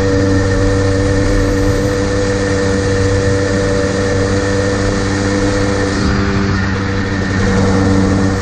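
Modded Kawasaki KDX220R two-stroke dirt bike with FMF exhaust running at a fairly steady speed, its engine note holding mostly level with a slight shift in pitch about six seconds in, over a steady rush of wind noise.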